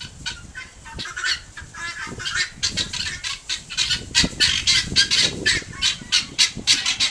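A flock of farm birds calling over one another in a noisy racket of short, harsh, repeated squawks. The calls start sparse and grow denser and louder about two and a half seconds in.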